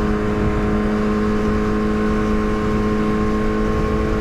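Yamaha R6 inline-four sport-bike engine running at a steady, unchanging note while cruising, with wind rumbling over the microphone.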